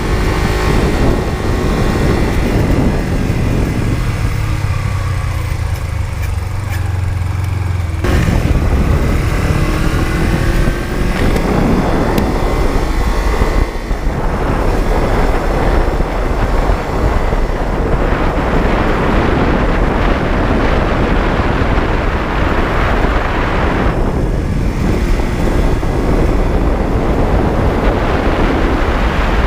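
Honda CB125T's 125cc air-cooled parallel-twin engine running while riding: the engine eases to a low note about four seconds in, then picks up sharply again about eight seconds in, its pitch rising as it accelerates, and carries on running hard.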